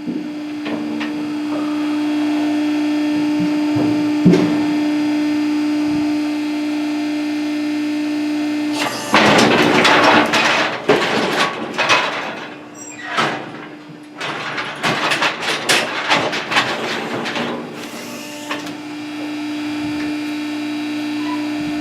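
A steady machine hum, broken from about the middle for several seconds by a run of loud metallic clanging and rattling, like the gates and bars of a cattle squeeze chute being worked.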